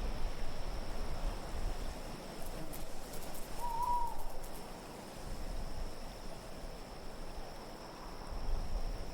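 An owl hoots once, a short wavering call about four seconds in, over a steady bed of low wind.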